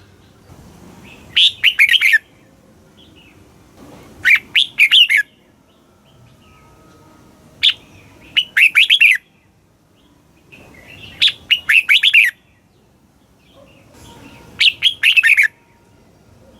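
Red-whiskered bulbul singing: five short phrases of quick, bright warbled notes, about three seconds apart.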